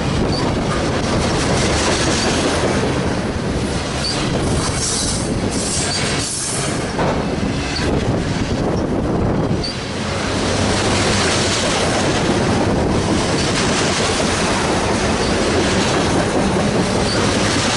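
Cars of a slow CSX freight train rolling past on steel wheels, a steady loud rumble with brief high wheel squeaks now and then.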